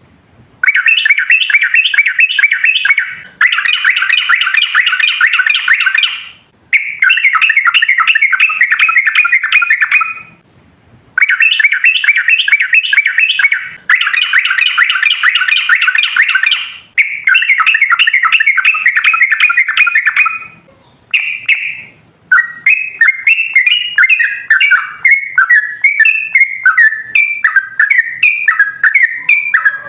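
Yellow-vented bulbul (trucukan) singing its long, rapid, bubbling 'ropel' song. The song comes in dense chattering phrases of two to three seconds with short breaks between them. Toward the end it loosens into more spaced-out warbling notes.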